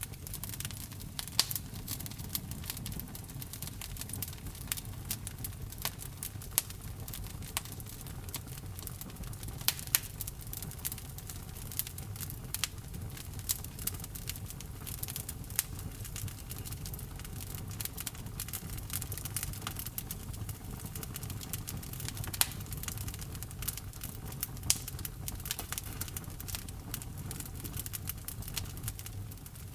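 Wood fire in a fireplace crackling, with frequent sharp pops of burning logs over a steady low rumble.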